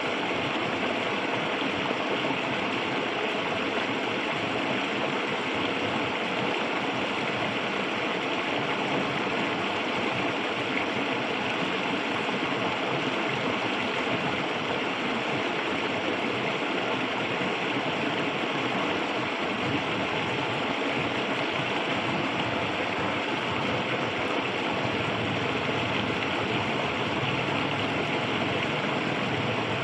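River water flowing steadily. A low hum joins near the end.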